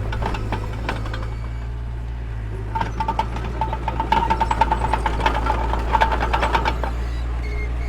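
Mini bulldozer's diesel engine running steadily under a dense rattle and clank of metal. The clanking grows louder and busier from about three seconds in, with a squealing tone pulsing through it, then eases near the end.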